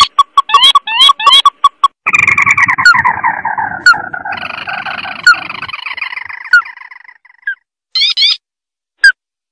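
Recorded crake call played as a bird lure: a few quick upslurred notes, then from about two seconds a long chattering trill that falls in pitch and fades away, and a couple of short notes near the end.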